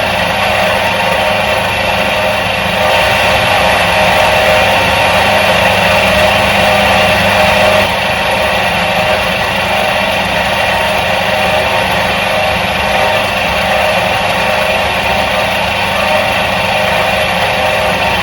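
Electric motor of a 1977 Soviet washing machine running with a steady drone and whine. It grows a little louder about three seconds in and drops back abruptly about eight seconds in.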